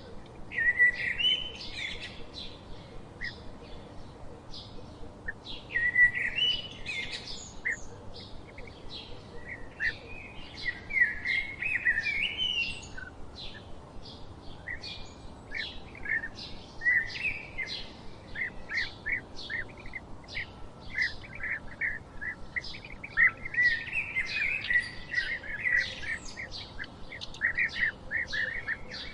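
Songbirds chirping and singing: a constant run of short, high chirps with louder warbled song phrases breaking in about a second in, around six seconds, from about ten to thirteen seconds, and again in the mid-twenties.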